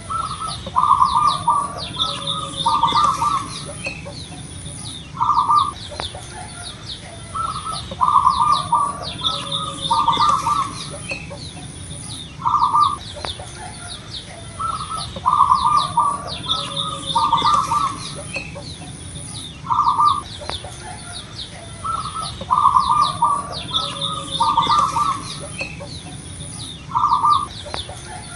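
Zebra dove (perkutut) cooing: short coo notes in groups of two or three, repeated every couple of seconds. Steady high chirping of other small birds and a thin high whine run beneath.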